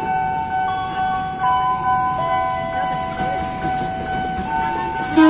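A train, with several steady high tones sounding together over a rumble, some starting and stopping at different moments, and a short loud burst at the very end.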